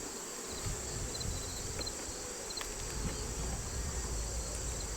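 Steady, high-pitched chorus of late-summer insects in the field around the hive. A low rumble comes in about half a second in.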